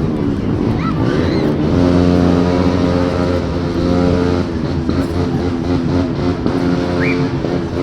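Motorcycle engine running loudly, its pitch shifting with the throttle before holding steady for a few seconds, then changing again.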